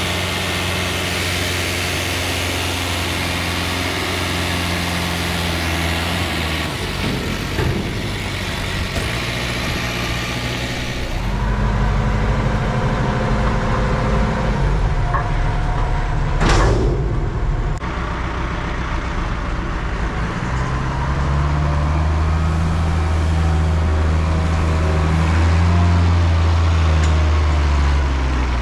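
Massey Ferguson tractor engine working on a silage pit, its revs dropping and climbing several times under load as it buckrakes grass, with a brief hiss about halfway through.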